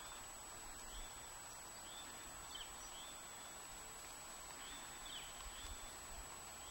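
Faint outdoor ambience with small birds giving short, high chirps, about one a second.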